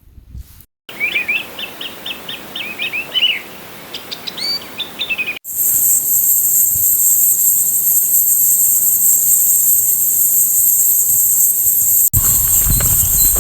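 A songbird sings a quick series of repeated chirps. After an abrupt cut it gives way to loud, steady, high-pitched insect buzzing, with some low knocking noise near the end.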